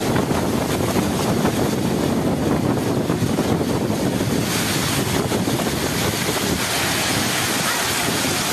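Storm wind gusting hard against the microphone, a loud rushing noise. About four and a half seconds in it changes to a brighter, steadier hiss.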